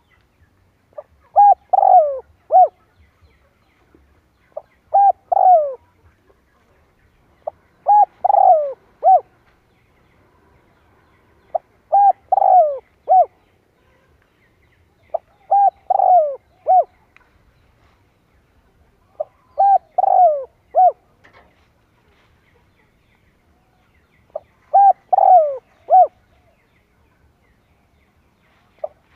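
Spotted dove cooing: a short multi-note 'coo-coo-croo' phrase with falling notes, repeated seven times a few seconds apart. This is a decoy call, used to provoke wild doves into calling back.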